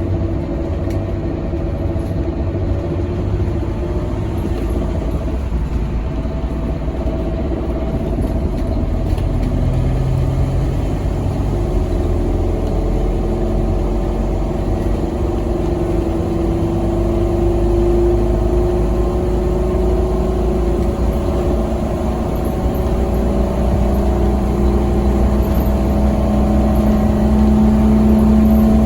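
Scania K270UB6 bus's diesel engine pulling through its ZF Ecomat automatic gearbox as the bus drives. The engine note climbs slowly and grows a little louder towards the end.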